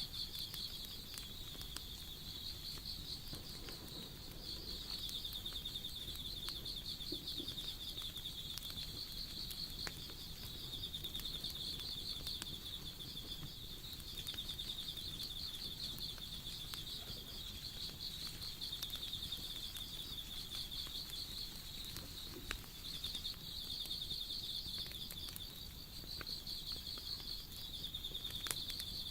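Insects chirping in long, rapidly pulsed high trills that pause briefly every few seconds, over scattered crackles and pops of a wood campfire.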